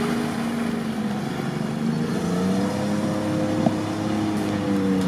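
Off-road 4x4 engine working under load through deep mud, its pitch rising a little over halfway through and then easing, with one short knock near the middle.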